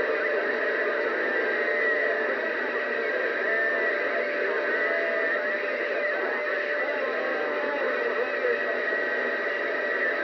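CB radio receiver on the 27 MHz band giving out steady static with garbled, unintelligible distant voices and wavering tones bleeding through, typical of long-distance skip reception.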